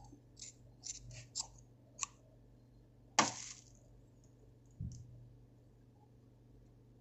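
Small clicks and taps from handling the parts of a Zippo-style lighter and its cotton filling by hand, with one louder sharp knock about three seconds in and a soft thump near five seconds.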